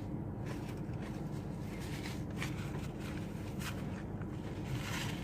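Eating sounds: soft chewing with a few faint clicks and crinkles of food or wrapper, over a steady low hum.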